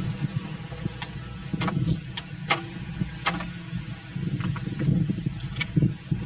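Engine of a clay-brick grinding mill running with a steady low rumble. About six sharp knocks sound at irregular intervals over the top of it.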